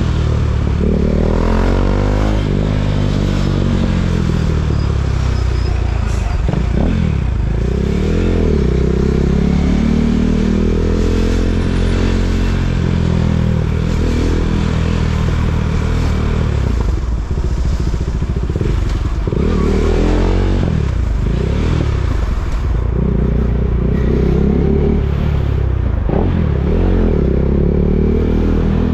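KTM 390 Duke's single-cylinder engine running at low speed, its pitch rising and falling again and again as it is revved and eased off.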